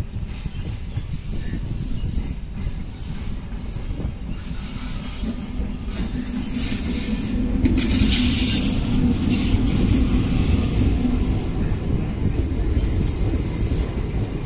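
Container freight wagons rolling along the rails with a steady low rumble and thin, high-pitched wheel squeals in the first half. The train grows louder from about six seconds in.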